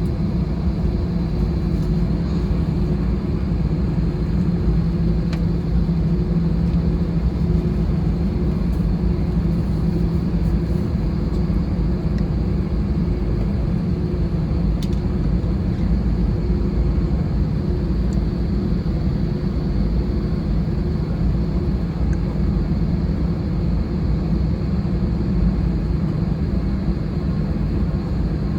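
Steady cabin noise inside an Airbus A320-216: a low rumble with a steady hum from its CFM56 engines running, unchanging throughout.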